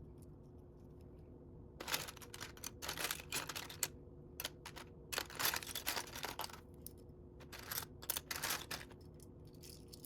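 Plastic Lego bricks clicking and rattling as loose pieces are picked through and handled, in several short bursts starting about two seconds in, with a faint steady hum underneath.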